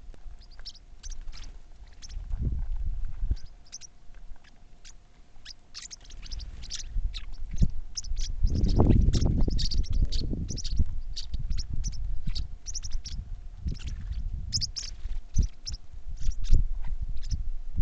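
Small birds chirping repeatedly in quick short notes, over a low rumble that swells about halfway through and a faint steady hum.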